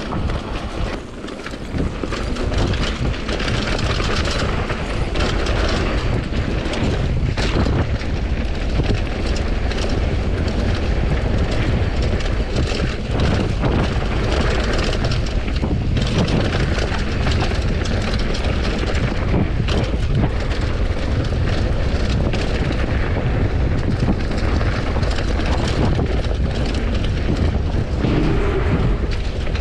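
Heavy wind rumble buffeting an action-camera microphone on a downhill mountain bike at speed, mixed with the tyres rolling over a rough dirt trail. There is a brief lull about a second in, then the noise holds steady.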